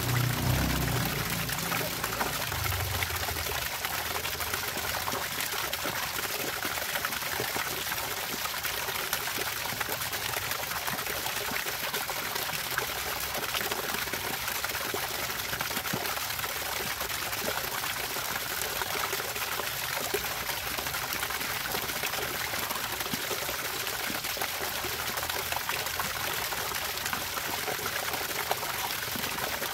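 Water running and trickling steadily in a fine, splashy stream. A low rumble fades out in the first few seconds.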